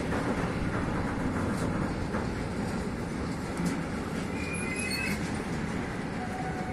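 Freight train of loaded car-carrier wagons rolling past close by: a steady rumble of steel wheels on the rails with light clatter, and short high-pitched wheel squeals in the second half.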